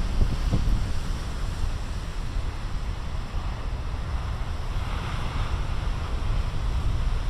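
Big ocean surf breaking and washing on a beach, with wind buffeting the microphone as a constant low rumble. A wave's wash swells up about five seconds in.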